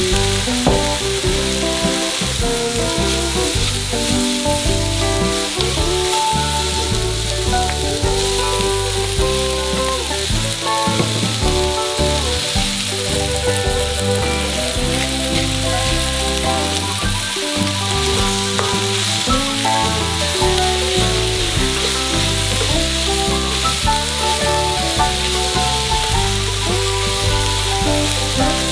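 Sausage slices, onion and green beans sizzling steadily as they stir-fry in oil in a wok-style pan, with a wooden spatula stirring them.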